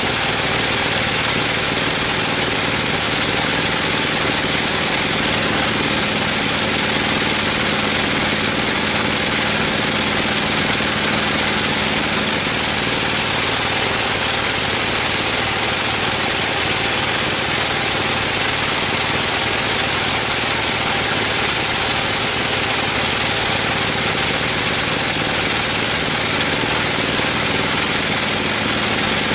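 Engine-driven sawmill machinery running steadily, an even drone with no pauses or changes.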